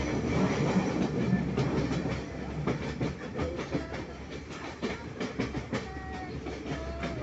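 Udarata Menike passenger train running on the rails: a steady rumble with repeated clicks and knocks from the wheels and carriages. A few short high tones come in near the end.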